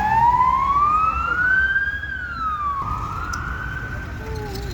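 Emergency vehicle siren in a slow wail: its pitch rises over about two seconds, drops briefly, then rises again and levels off near the end, over a low rumble of traffic.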